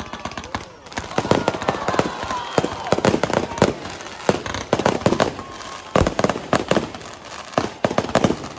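Fireworks going off: a rapid, irregular series of bangs and crackles with a few faint whistles, and a heavier low boom about six seconds in.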